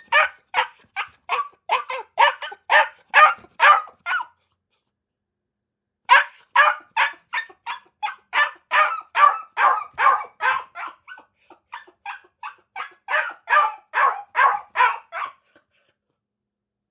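A dog barking over and over, about three barks a second. The barking comes in two long runs with a pause of about two seconds around four seconds in.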